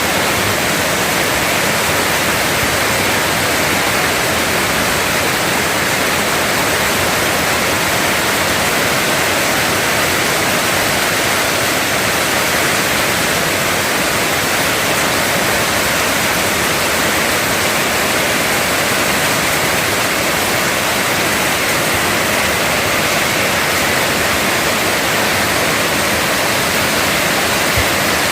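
Heavy tropical rain pouring down in an even, loud, unbroken hiss.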